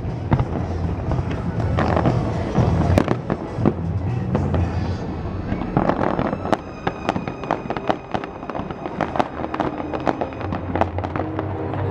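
Aerial fireworks bursting over a music soundtrack, with a steady bass beneath. About six seconds in, a dense run of quick crackling pops sets in.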